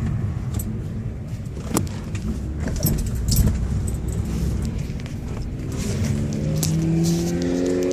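Ferrari 308 GTB's V8 running with a low exhaust rumble, and a few sharp clicks around the middle. About six seconds in, the engine note steadies into a clear drone that rises slightly in pitch.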